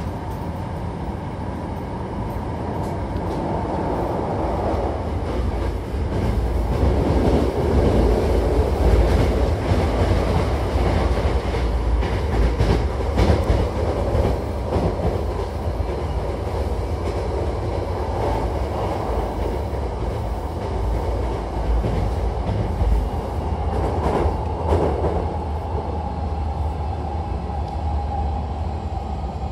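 Hankyu Takarazuka Line commuter train running, heard from inside the car: a steady rumble of wheels on rails that grows louder over the first several seconds. A few sharper clacks stand out.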